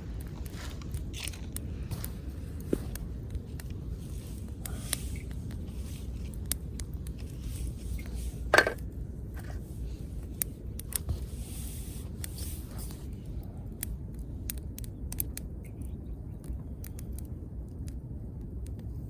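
Wood campfire crackling with scattered sharp pops, over a steady low rumble. A few scraping or rustling sounds come and go, with one louder, short scrape about eight and a half seconds in.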